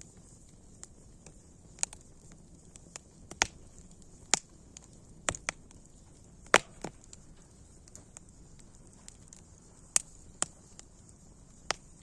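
Wood fire crackling: irregular sharp pops and snaps, the loudest about six and a half seconds in, over a faint steady hiss.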